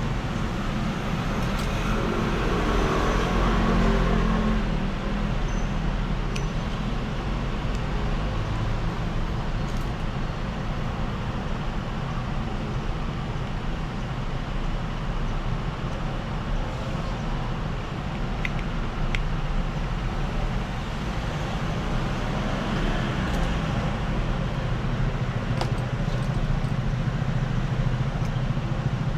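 Steady rumbling background noise with a few faint small clicks.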